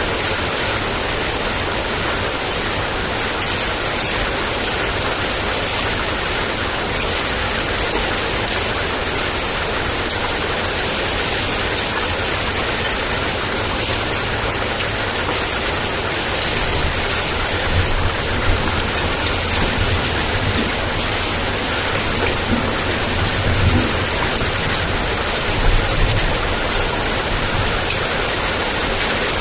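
Heavy downpour of rain, a steady dense hiss. A low thunder rumble builds in the second half, with a couple of swells near the end.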